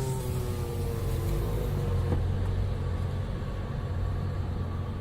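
A car engine running steadily with a low hum, faint higher tones fading out in the first couple of seconds.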